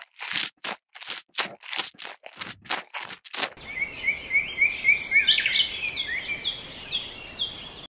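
Crisp crunching strokes, about two or three a second, like animals chewing grass. From about three and a half seconds in, this gives way to an outdoor country ambience: a steady hiss with many short, rising bird chirps.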